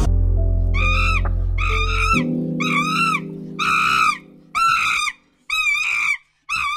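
An animal calling over and over, about eight short, arched calls in a steady series, with a low steady drone underneath for the first two seconds.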